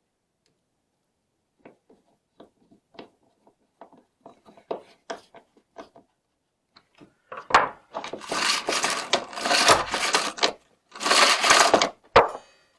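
Small clicks and taps of hand-handled metal parts, then from about seven seconds in, two loud stretches of rattling and clattering, like small hardware being stirred or shaken in a container.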